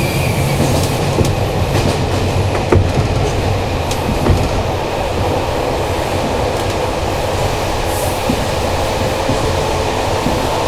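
Old locomotive-hauled passenger coach running along the track, heard from inside: a steady rumble of the wheels on the rails, with a few scattered sharp clicks.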